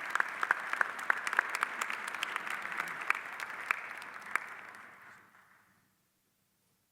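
Audience applauding, a dense patter of many hands clapping that tapers off and dies away about five to six seconds in.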